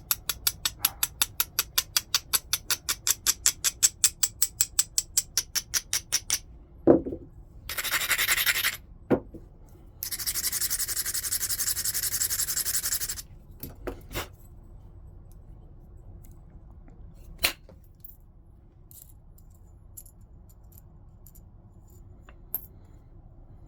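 Abrading stone rubbed along the edge of a stone point in quick, even strokes, about six a second, to prepare the edge for flaking. After about six seconds come a knock, two scraping passes, the second lasting about three seconds, and a few sharp clicks of stone on stone.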